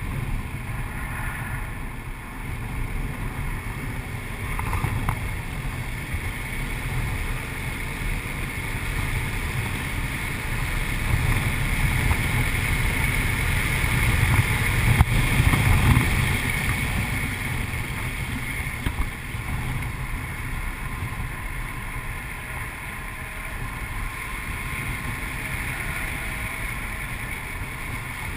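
A 2008 Audi RS4's 4.2-litre V8 pulling hard at track speed, heard from inside the cabin along with heavy road and wind noise. The sound builds to its loudest about halfway through, then eases back.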